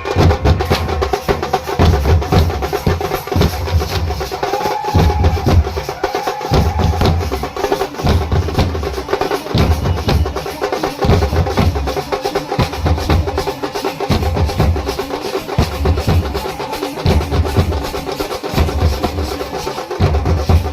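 Loud percussion-heavy music: rapid drumming over deep bass beats that come about once a second.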